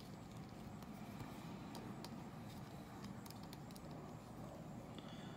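Faint steady low room hum with a few light, sharp clicks.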